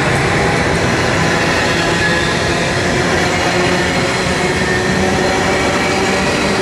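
Double-deck passenger train passing at speed: steady, loud rolling noise of wheels on the rails, with no let-up.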